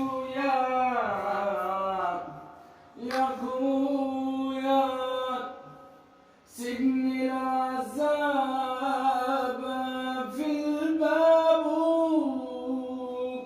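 A solo singer holding long, wavering melismatic notes in three drawn-out phrases, breaking for breath about 2.5 seconds and 6 seconds in, with no instruments heard.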